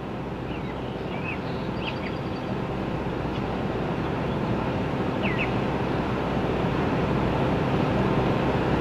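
A steady low rumbling noise slowly growing louder, with a few short bird chirps.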